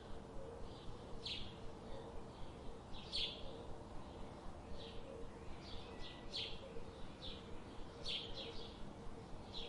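Birds chirping: short, high chirps repeated every second or two over a faint, steady low hum.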